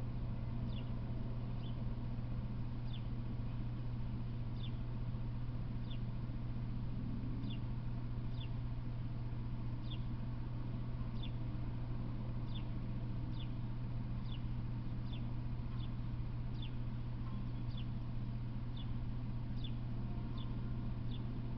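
A bird chirping: short, slightly falling high chirps repeated every half second to a second, over a steady low hum.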